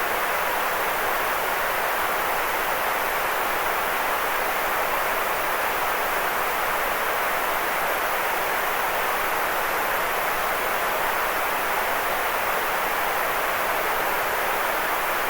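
Steady, unchanging white noise: an even hiss, strongest in the middle range, with little low rumble.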